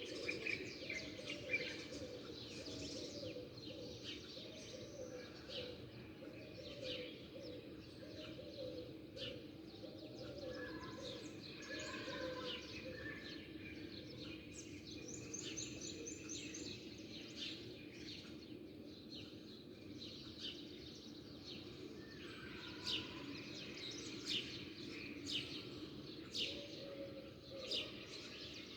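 A chorus of small songbirds chirping and twittering, with many short, quick calls overlapping, over a steady low background hum. A run of low repeated notes goes through the first half.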